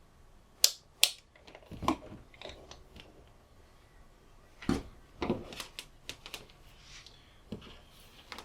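Handling clicks and knocks of a multimeter and a UPS fuse being tested on a bench: two sharp clicks close together about a second in, then scattered softer clicks and a couple of duller knocks around the middle.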